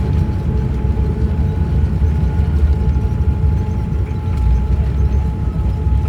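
Cabin noise of a Boeing 787-9 airliner during landing: a loud, steady low rumble with rattling and a constant humming tone over it.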